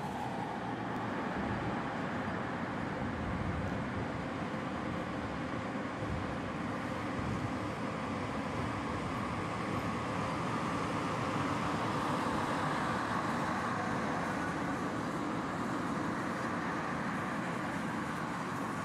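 Dm3 electric locomotive hauling loaded iron ore wagons past, a steady rumble of the locomotive and of wheels on the rails, a little louder about two-thirds of the way through as the locomotive goes by.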